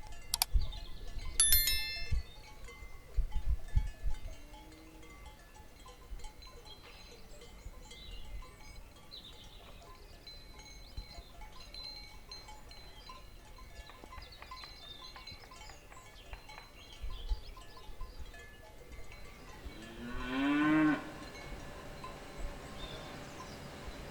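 Cattle in a pasture: cowbells ringing near the start with some low thuds, then a single cow's moo about twenty seconds in, lasting about a second and the loudest sound. Faint bird chirps in the background throughout.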